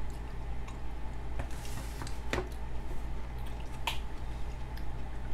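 A person chewing a mouthful of food close to the microphone, with wet mouth clicks and smacks, three of them sharp, over a steady low hum.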